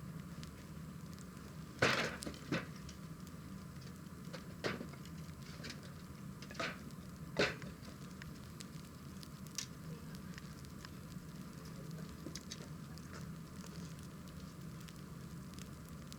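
Wood fire burning with a steady low rush, broken by several sharp crackling pops in the first half, the loudest about two seconds in, and fainter ticks later.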